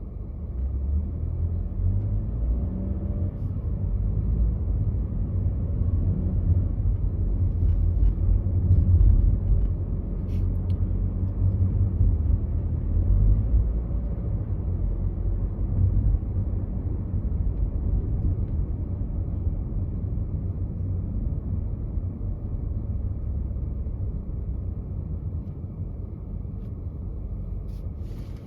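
Car driving on a freeway: a steady low road and engine rumble that grows louder around the middle.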